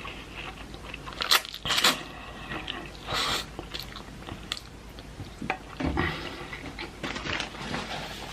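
A person eating spicy instant ramen noodles close to the microphone: slurping and chewing, with a few sharp louder moments.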